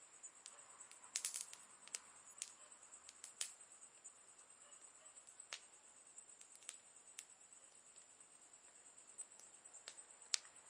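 Wood campfire crackling softly: scattered sharp pops and snaps, with a quick cluster of crackles about a second in and a louder pop near the end.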